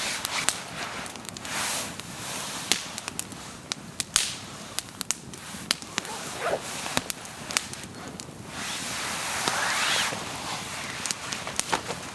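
Campfire crackling, with many irregular sharp pops and snaps over a steady hiss. A louder rushing hiss rises in pitch briefly about three-quarters of the way through.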